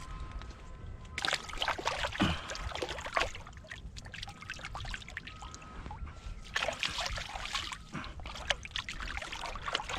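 River water splashing and trickling as a small striped bass is released by hand. There are two main bursts, one about a second in and one about six and a half seconds in.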